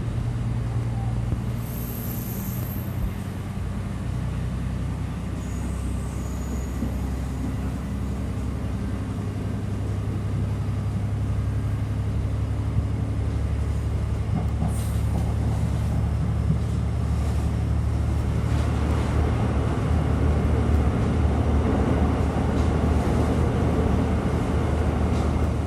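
Airport rail link train running, heard from inside the passenger car: a steady low hum under a rolling rumble, the rolling noise growing louder about two-thirds of the way through.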